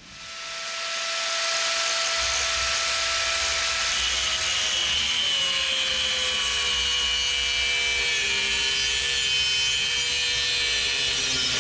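Electric power tool cutting steel stock: its motor spins up over the first second or two, then runs steadily with a hissing cut. Its whine drops in pitch from about four seconds in as the tool is loaded.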